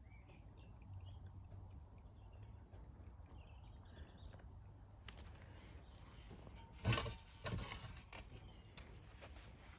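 Garden birdsong: a small bird repeating a short phrase of high, falling notes every few seconds. Two short rustling noises come about seven seconds in and are the loudest sounds.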